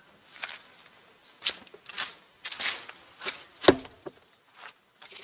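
Footsteps: a run of irregular short crunching steps, with one sharper, louder knock a little past halfway.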